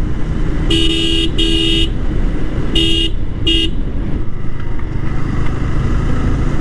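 A vehicle horn honks four times in two quick pairs of short beeps during the first four seconds. Underneath is the steady engine and wind noise of a motorcycle underway.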